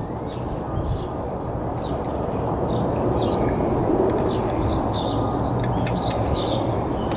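Small birds chirping in short, scattered calls over a steady low background rumble, with a few light clicks about six seconds in.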